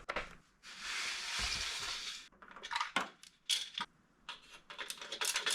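Handling noise while an air conditioner's power cord and plug are being connected: a hiss lasting about a second and a half, then a run of light clicks and clatters.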